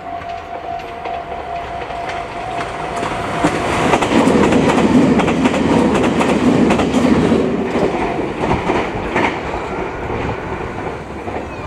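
Red Meitetsu electric train passing close by, its wheels clicking over the rail joints. The sound builds to its loudest about four seconds in as the cars go past, then eases off as the train moves away.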